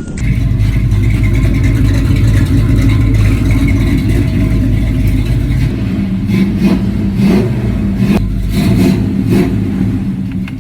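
Chevrolet Malibu SS engine running just after a cold start, having sat about eight months in storage. It holds a steady low note, swelling a few times in the second half as the revs rise.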